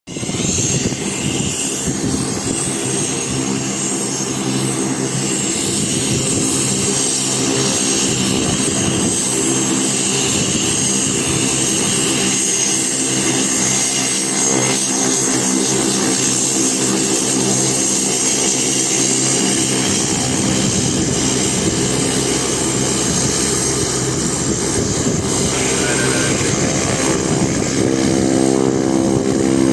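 Cessna 208B Caravan's PT6A turboprop engine and propeller running at low power while the aircraft taxis, a steady propeller drone with a high turbine whine. About 28 seconds in, a deeper, stronger propeller tone comes in and the sound grows a little louder.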